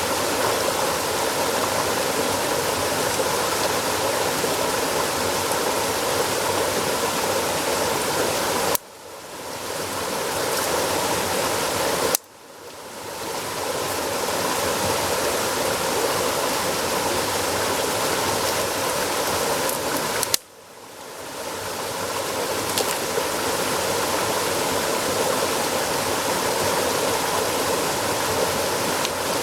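Steady rushing of flowing stream water. It is broken three times by a sharp crack, and after each one the sound drops away and swells back over a couple of seconds.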